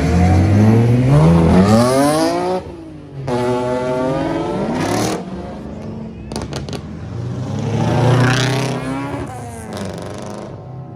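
Car engines revving hard and accelerating away, their pitch rising through the first couple of seconds. A brief drop near three seconds is followed by another loud run, and a further rising rev comes around eight seconds.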